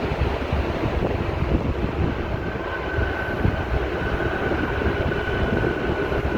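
Heavy wide-body jet airliner landing: a steady rumble of engine noise and rushing air, with a thin high whine coming in about two and a half seconds in.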